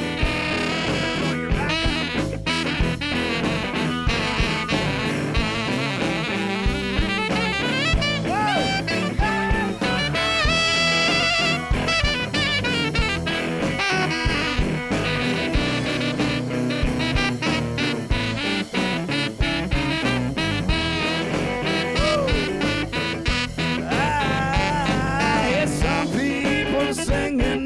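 Blues band playing an instrumental break over a steady beat, a lead instrument soloing in long wavering, bending notes.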